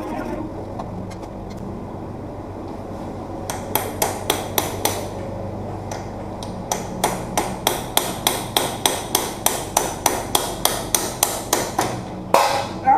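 Hammer blows on a hard, likely metal part: a few strikes, then a steady run of about four blows a second for around five seconds, with a louder burst of noise near the end.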